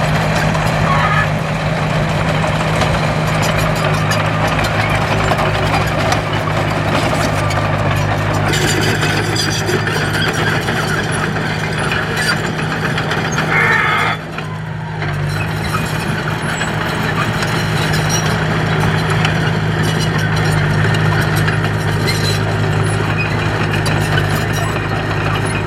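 Diesel engine of a heavy earthmoving machine running steadily under load, with a constant low drone and rattle over it. The sound dips briefly a little past halfway.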